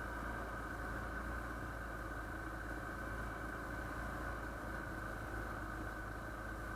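Motorcycle running at a steady pace on the road, a constant engine hum with road noise.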